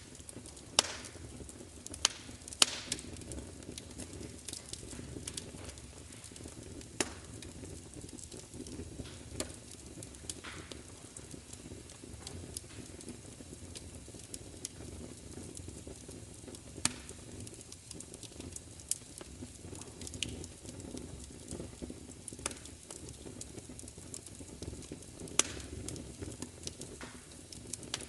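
Crackling fire: irregular sharp pops and snaps over a steady low rumble of burning. A few pops stand out louder, two or three near the start and one each about 17 and 25 seconds in.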